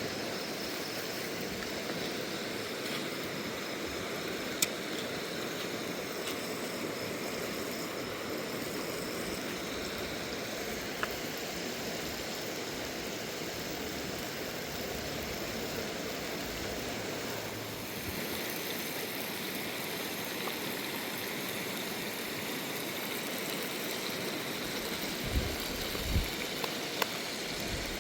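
River water flowing steadily, its sound turning a little brighter about two-thirds of the way through. A few sharp knocks are scattered through, three of them close together near the end.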